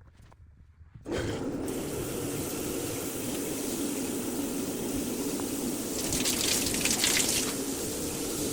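Shower head spraying water, turned on suddenly about a second in, then a steady rushing hiss of falling water, briefly brighter and splashier about six to seven seconds in.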